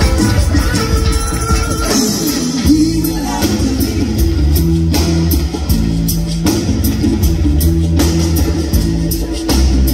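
Live reggae band playing a steady groove, with electric guitar, bass and drum kit.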